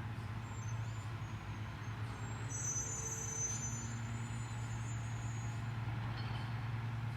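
Rear-loader garbage truck running steadily, with a brief high-pitched squeal from about two and a half to four seconds in.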